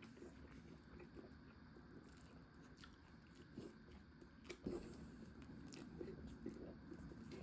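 Faint chewing and small mouth sounds of someone eating, with a slightly louder click about four and a half seconds in.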